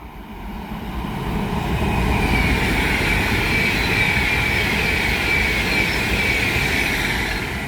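Avanti West Coast Class 390 Pendolino electric train passing through at speed. A rushing noise builds over about two seconds, holds loud with a high whine that slowly falls in pitch, then eases near the end.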